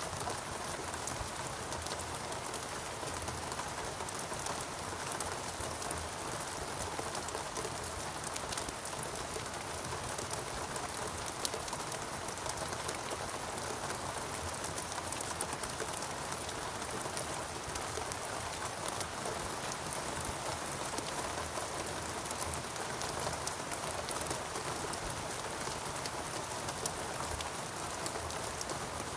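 Steady rain falling in a rainforest, an even hiss of many drops with fine patters of individual drops throughout.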